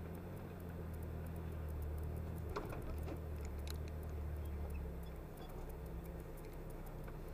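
Lotus sports car's engine idling steadily while the car stands still, heard from inside the car, with a few faint clicks.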